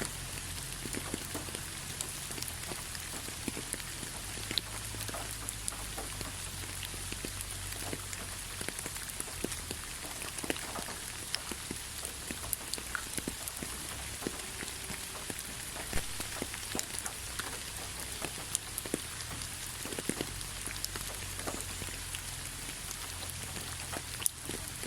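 Light rain falling: a steady hiss with many scattered ticks of individual drops.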